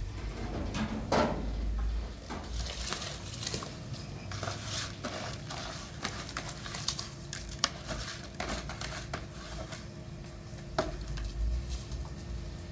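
Scattered light clicks, taps and rustling, like small objects or utensils being handled, over a low rumble.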